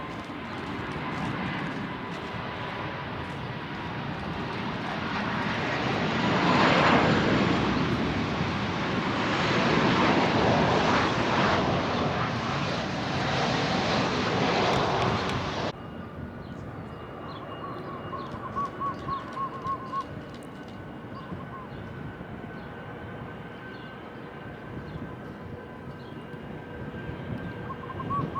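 Jet aircraft passing close, its engine noise building to a peak about seven seconds in and staying loud, then cut off abruptly about halfway through. A much quieter background with faint steady tones and a brief warbling tone follows.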